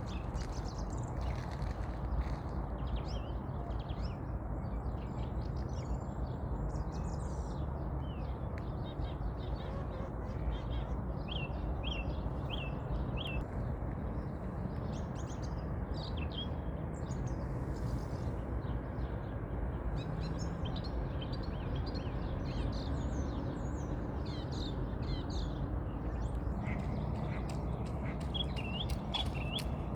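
A resting flock of birds calling, many short chirps and calls overlapping throughout, over a steady low background rumble.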